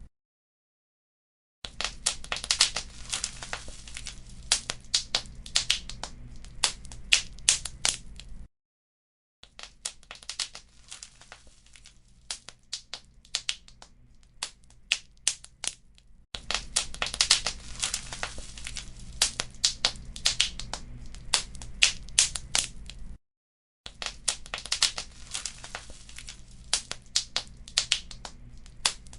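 Wood fire crackling, with many sharp pops and snaps over a low rumble of burning. The sound cuts out completely three times: for about a second and a half at the start, about a second near the middle of the first third, and briefly again later. A quieter stretch of gentler crackling runs from about ten to sixteen seconds in.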